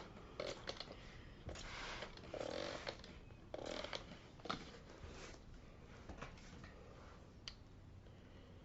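Faint scrubbing and rustling on an old cloth seat cover as cleaner is worked into a stain: several short strokes in the first half, then quieter with a few light clicks.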